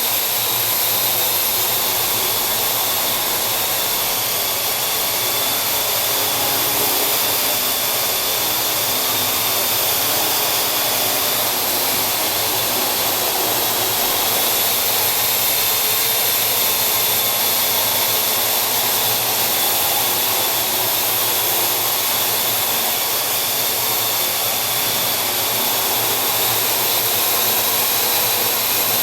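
Parrot AR.Drone quadcopter's four electric rotors whirring steadily in flight, with a thin high whine from the motors.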